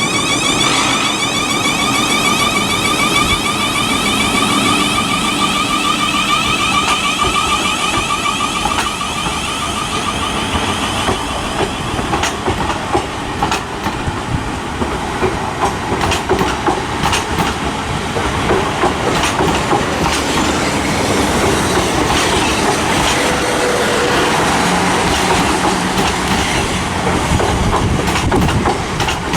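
Class 444 Siemens Desiro electric multiple unit pulling away, its traction motors giving a multi-toned whine that slowly climbs in pitch as it gathers speed. From about twelve seconds in, the whine gives way to the rumble of the coaches rolling past and a steady run of wheel clicks over the rail joints.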